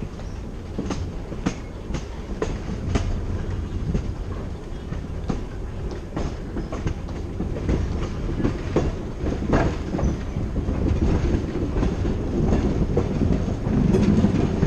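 A train car rolling along the track: a steady rumble with irregular clicks of the wheels over the rail joints, a little louder near the end.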